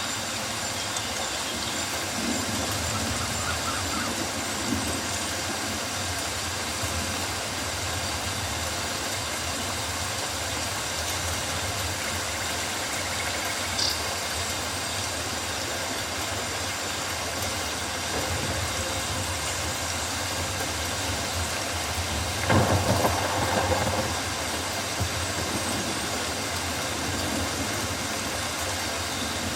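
Steady rainforest rain, an even hiss of falling drops on foliage. A single short high note comes about halfway through, and a brief louder burst of rustling noise follows about three quarters of the way in.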